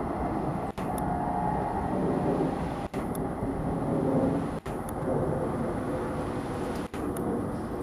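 Passenger train pulling away round curved track behind an Alco WDM-3A diesel locomotive: a steady low rumble of the coaches on the rails mixed with the distant engine drone. The sound is cut by four brief dropouts.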